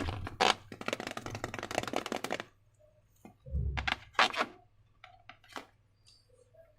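Slime being worked by hand: a dense run of small wet crackling clicks for about two and a half seconds, then a few scattered clicks and a soft thump.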